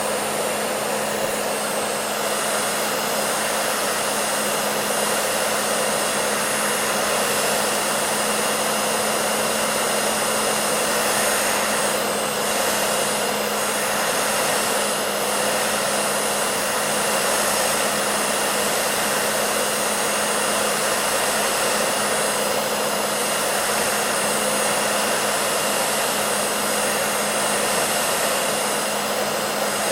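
Hair dryer running continuously with a steady rushing blow of air and a constant motor hum underneath, unchanging throughout.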